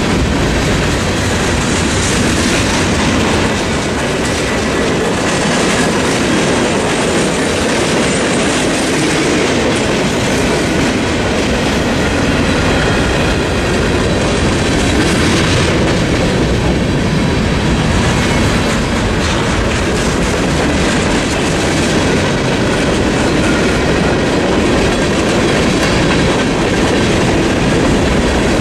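Freight train's covered hoppers and boxcars rolling past close by: a loud, steady rumble of steel wheels on rail, with clickety-clack over the rail joints.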